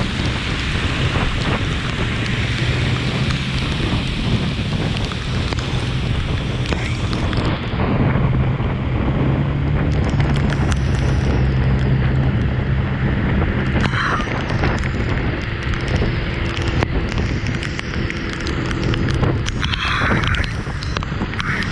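Heavy rain hissing steadily, with a low steady hum underneath; the hiss turns duller about seven seconds in.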